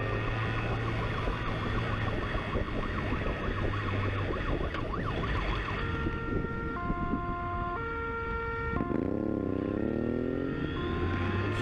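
Police motorcycle's electronic siren switching modes: a rapid yelp, then a two-tone hi-lo from about six seconds in, then a slow wail, then back to the yelp, over the steady drone of the motorcycle's engine and wind rush.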